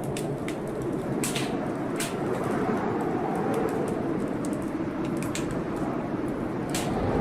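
Heavy blizzard wind blowing steadily with a low moaning rush, while a wood fire crackles and pops in short sharp snaps scattered throughout, the louder pops coming about one and two seconds in.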